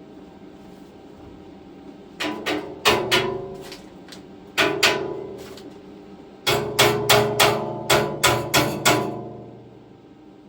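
Hammer blows on a steel fabrication with a metallic ring after each strike, in three bursts: about five quick blows, then two, then about nine in a rapid run. The pieces are being knocked into the frame to seat them tight.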